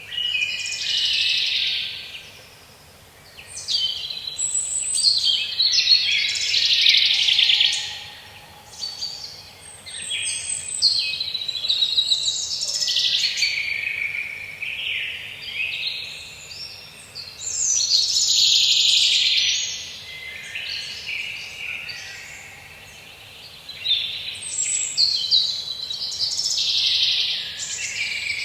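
Songbirds singing in a forest: high chirping and trilling phrases a few seconds long, one after another with short lulls between, over a faint steady background hush.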